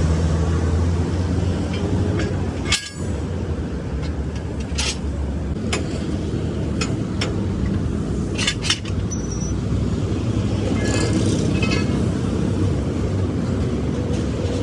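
Steady low rumble of vehicle engines and road traffic, with a scattering of sharp metallic clinks and knocks every second or two, like tools striking steel parts.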